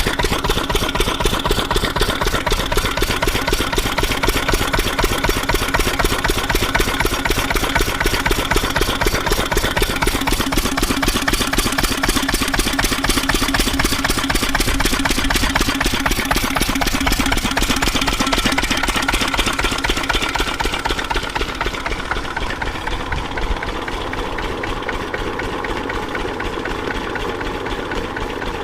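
8HP Lister-type single-cylinder diesel engine running steadily with an even, rapid beat of firing strokes. From about twenty seconds in it gets a little quieter and duller.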